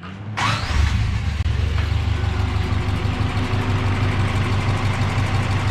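Subaru Brat's freshly swapped-in flat-four engine starting up about half a second in, then settling into a steady idle.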